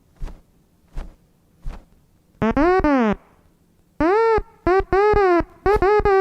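A series of loud, synthesizer-like honks, each rising and then falling in pitch. Three faint ticks come first, then four longer honks in the second half.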